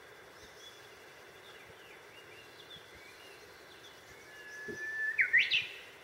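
A bird singing: a long held whistle that swells in loudness, then a few quick, sharply rising notes near the end. Faint scattered chirps come before it.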